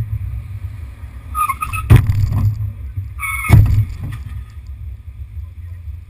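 Steady low rumble of a moving car heard from inside, with two loud thumps about a second and a half apart, each just after a brief high squeak.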